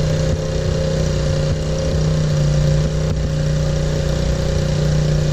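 Car engine running at a steady speed with a constant, unchanging pitch while the car rolls along slowly.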